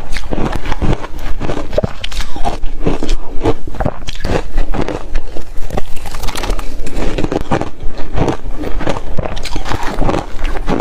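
Refrigerator reshaved ice being bitten and chewed close to the microphone: a loud, rapid, irregular run of crisp crunches.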